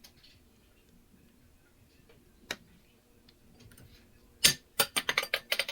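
Hard objects handled on a glass cutting board: a single sharp tap, then near the end a quick run of about ten clicks and clatters.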